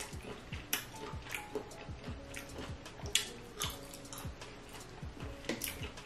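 Close-miked chewing of cuttlefish: a run of wet mouth clicks and smacks, with faint background music under it.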